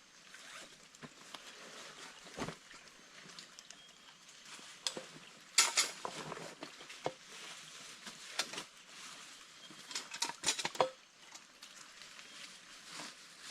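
Dry leaf litter and twigs crackling and snapping irregularly underfoot, with louder clusters of snaps about halfway through and again near the end.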